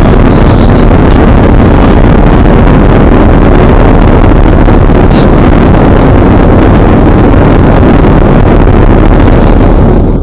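Chevrolet Camaro engine running just after being started, loud and steady, easing off near the end.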